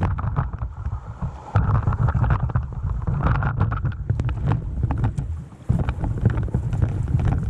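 Rushing river water in rapids under heavy wind buffeting on the microphone, with many short sharp splashes and knocks throughout.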